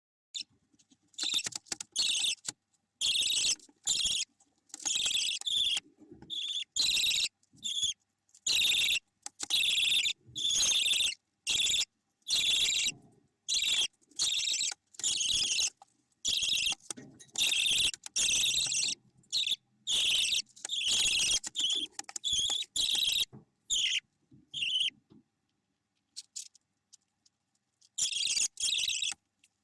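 Budgerigar chicks calling in a long series of harsh, high-pitched bursts, each under a second, with short gaps between them. The calls pause for a few seconds near the end, then start again.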